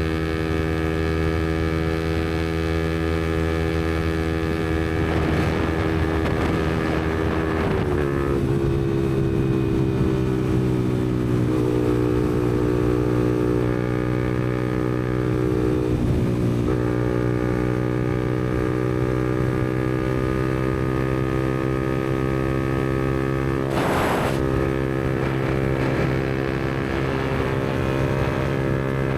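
Yamaha MT-125's single-cylinder four-stroke engine running through a Black Widow aftermarket exhaust while cruising, steady with small changes in engine speed: the pitch steps down about 8 seconds in and shifts again around 16 seconds. A brief burst of noise comes about 24 seconds in.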